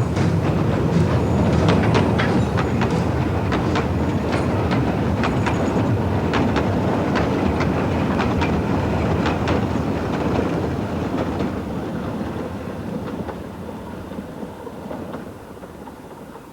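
Narrow-gauge train running along the line, its wheels clicking over the rail joints over a low rumble. The sound fades away over the last third.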